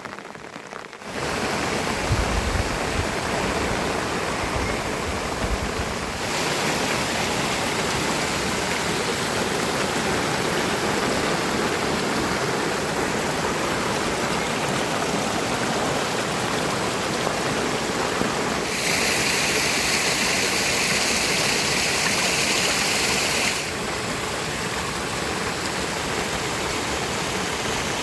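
Steady rush of heavy rain and running water. Its character changes abruptly about a second in, around six seconds in, and twice more later. There is some low rumbling between about two and six seconds in.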